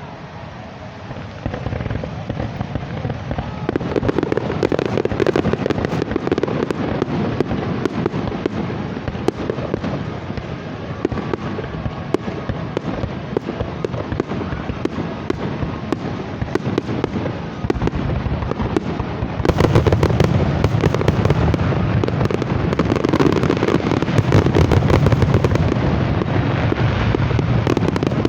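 Fireworks display: a dense, continuous run of bangs and crackling. It grows louder about four seconds in, and louder again about two-thirds of the way through.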